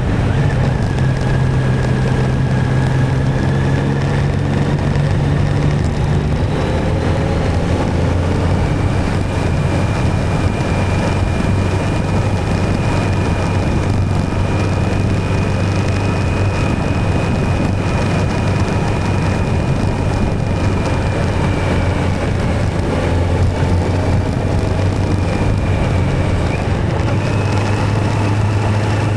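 Motorcycle engine running at steady road speed, with wind and road noise. The engine note drops to a lower pitch about six seconds in and then holds steady.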